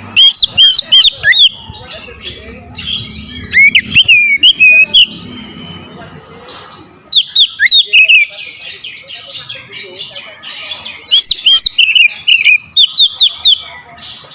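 Oriental magpie-robin singing loudly: four bursts of sharp, whistled notes that bend up and down, with quieter chattering between the bursts.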